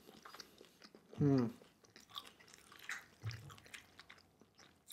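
Close-miked wet chewing and mouth sounds of a person eating pan-fried rice rolls (cheung fun), with small sticky clicks and smacks and a short hum about a second in.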